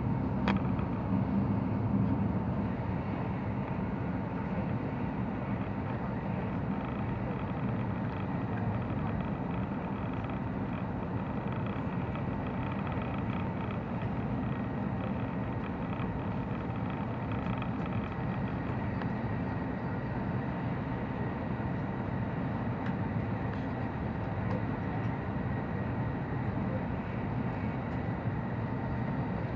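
Cabin noise inside a Sanyo Shinkansen train running at speed: a steady low rumble with one sharp click about half a second in.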